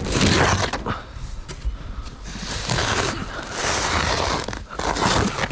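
Snow being pushed and scraped with a snow-clearing tool, three long scraping strokes.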